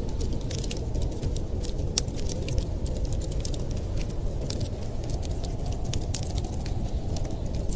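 Wood fire crackling, with many small irregular pops and snaps, over a steady low rumble of winter wind.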